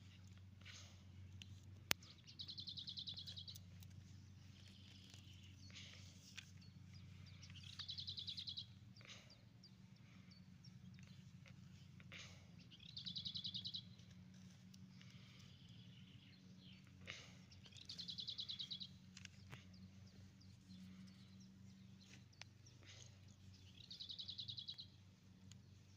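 A songbird singing the same short, fast-trilled phrase five times, about once every five seconds, over a faint steady low hum.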